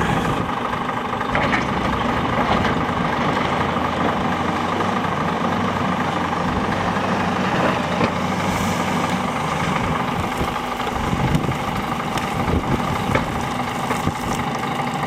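Diesel engines of a wheel loader and a truck running steadily, with a few light knocks.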